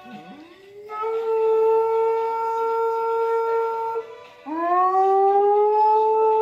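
Dog howling: two long, steady howls, the second sliding up in pitch at its start and held for nearly three seconds.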